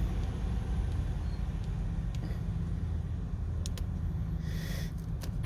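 A truck's diesel engine running with a steady low rumble, with a few clicks and a brief hiss near the end.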